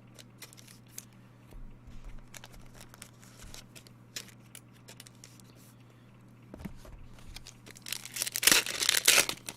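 Light rustling and clicks of cards being handled, then about eight seconds in a loud burst of tearing and crinkling as a trading card pack wrapper is ripped open.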